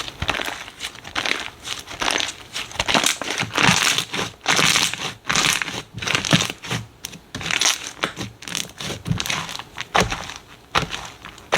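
Slime being squeezed, pressed and poked by hand, giving repeated crinkling, crackling squishes at an irregular pace of a few a second.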